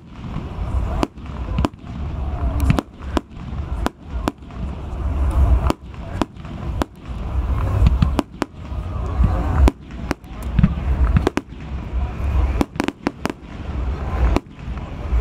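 Fireworks display: many sharp bangs of bursting aerial shells in quick, irregular succession, with a low rumble between them.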